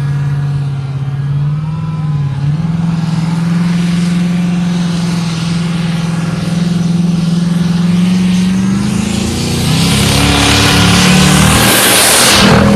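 Supercharged diesel pulling truck's engine running hard under load down the track, its pitch climbing in small steps and the sound growing louder and rougher over the last few seconds.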